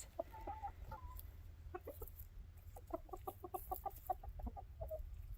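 Chickens clucking softly, with a few scattered calls and then a quick run of short, rapid clucks about halfway through.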